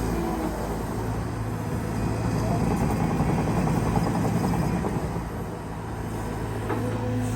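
Caterpillar 320GX excavator's four-cylinder Cat C4.4 diesel engine and hydraulic pump working while digging. The steady engine note turns rougher and noisier through most of the stretch, then settles back to a steady tone near the end.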